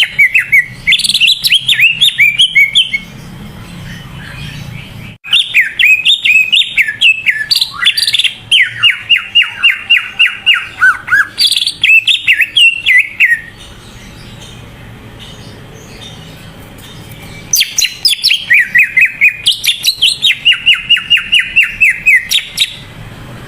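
Green leafbird (cucak ijo) singing in full voice: three long phrases of rapid, sweeping whistled and chattering notes, separated by short pauses.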